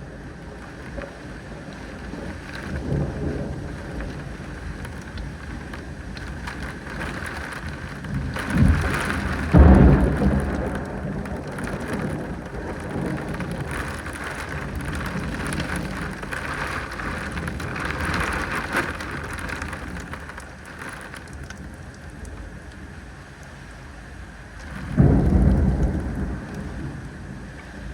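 Thunderstorm: steady rain falling, with thunder claps and rumbling about nine seconds in and again near the end, the first the loudest.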